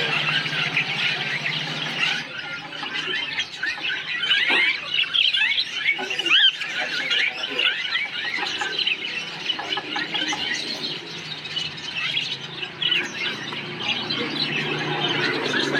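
A colony of parakeets chirping and squawking together, many short calls overlapping with no pause.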